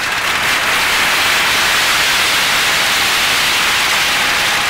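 Fireworks at a lion dance finale going off as a loud, steady hiss, with no separate bangs standing out.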